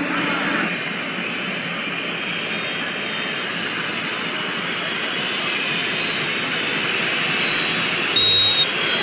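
Stadium crowd noise, a steady din of many voices slowly growing louder, cut near the end by one short, loud, high-pitched whistle blast from the referee's whistle.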